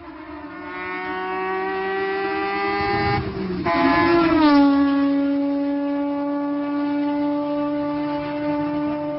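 Mazda RX-8 race car's 13B rotary engine at high revs passing by. The pitch climbs as it approaches and the sound grows louder. About three seconds in there is a brief break, then the pitch drops as it goes past, and it holds a steady, slowly fading tone as it moves away.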